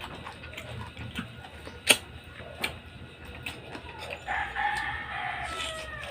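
A rooster crowing once, one long call starting about four seconds in and dropping slightly in pitch at its end. Before it come scattered sharp clicks, the loudest about two seconds in.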